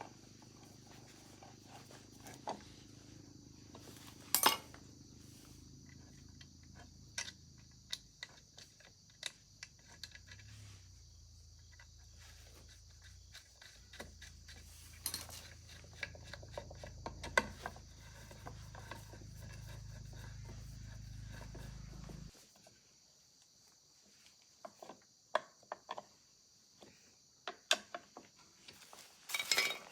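Scattered light metallic clicks and knocks of hand tools being handled during bicycle repair work, over a low steady hum that cuts off suddenly about two-thirds of the way through.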